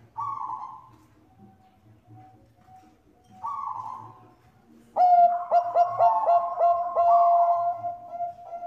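Zebra dove of the Bangkok type (perkutut bangkok) cooing. Two short coos come first; then, about five seconds in, a loud song of quick stuttering notes runs into a long held coo.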